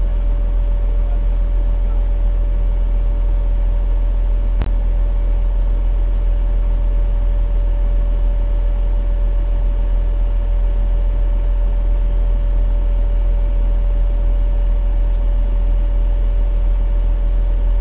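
Fire engine running steadily, heard through the dashcam: a loud, deep, even sound with a steady tone above it. One sharp click about four and a half seconds in.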